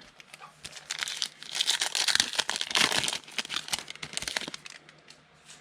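A foil trading-card pack wrapper being torn open and crinkled by hand, a dense crackling that builds about a second in and fades near the end.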